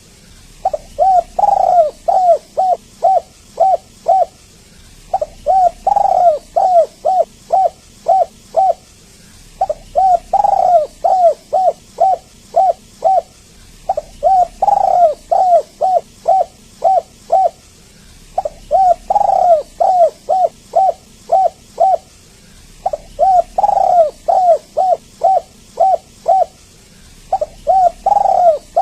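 Spotted dove (tekukur) cooing in repeated phrases: each is a run of short, quick coos around one louder, drawn-out note, and the phrase comes again about every four to five seconds.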